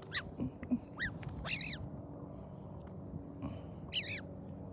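A wild bird giving several short, arching calls in a few separate bursts.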